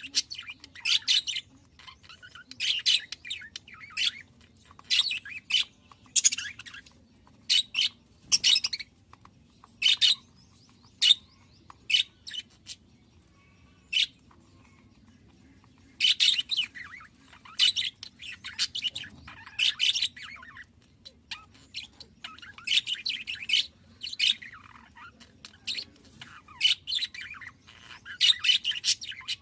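Budgerigars chirping and chattering in quick bursts of high, twittering calls, with brief pauses between bursts.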